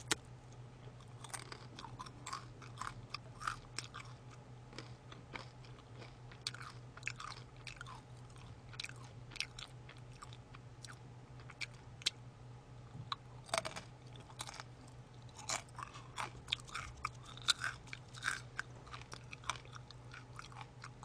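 Close-miked chewing and crunching of crispy fried food (fries and fried chicken), short irregular crunches throughout, over a steady low hum.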